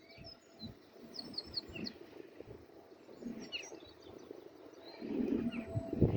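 Small birds chirping in short quick runs of falling notes, over steady outdoor background noise; a low rumble builds near the end.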